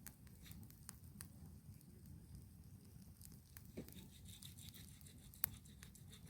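Wood campfire crackling faintly, with scattered small pops and one sharper pop about five seconds in.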